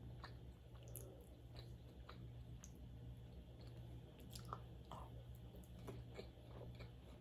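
A person chewing food close to the microphone, with many soft, scattered mouth clicks over a faint steady hum.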